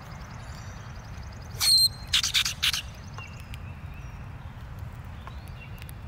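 A bird gives a short, high whistled note, followed about half a second later by a quick run of loud, rasping bursts, over a steady low rumble.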